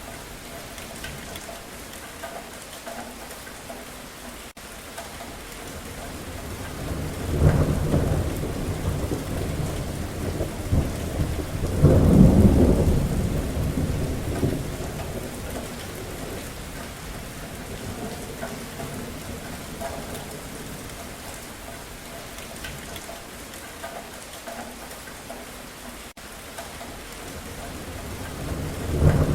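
Steady rain with thunder rumbling: one roll about seven seconds in, a louder, longer one around twelve seconds, and another building at the very end.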